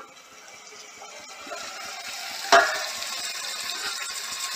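Spiced vegetables sizzling in a kadai as the lid comes off, the hiss growing over the first two seconds, with one sharp knock against the pan about two and a half seconds in. Near the end a wooden spatula starts stirring through the vegetables.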